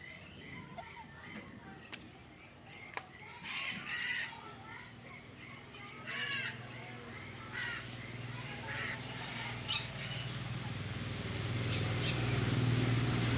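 Birds calling: short, harsh calls several times over a faint, quick chirping. A steady low hum with a hiss rises near the end.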